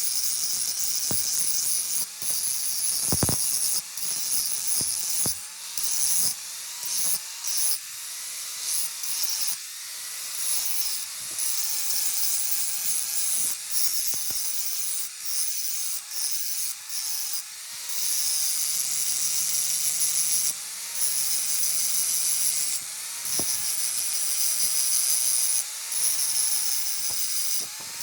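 Power grinder working metal: a steady hiss broken by many short pauses, over a faint motor tone that dips in pitch about every second or so.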